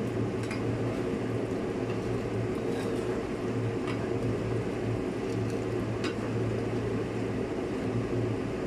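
Steady low mechanical hum of a running machine, with a few faint light clicks.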